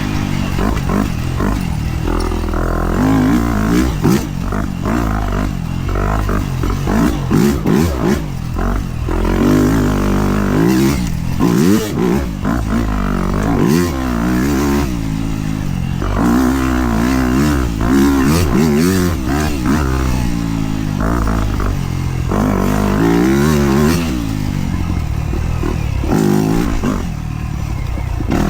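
Dirt bike engine being ridden hard, revving up and dropping back over and over as the throttle is worked through the trail.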